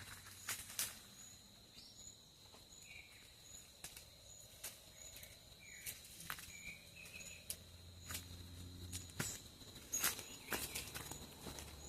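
Quiet rural evening ambience: insects keep up a steady high whine with a short high chirp about twice a second, a few small bird chirps come and go, and scattered sharp clicks and rustles of handling and steps sound close by.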